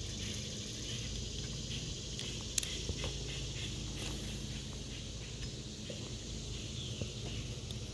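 Outdoor creek ambience: a steady low rumble and a high hiss, with scattered light taps and clicks and one sharper click about two and a half seconds in.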